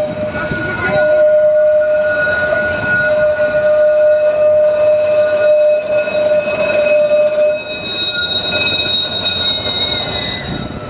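Steel wheels of a Blackpool heritage tram squealing on the rails as it runs, a steady high-pitched squeal whose pitch shifts about three quarters of the way through.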